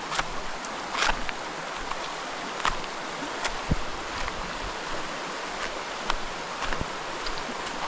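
Rainforest creek water running steadily, with about ten short sharp ticks and splashes scattered over it and one low thump near the middle.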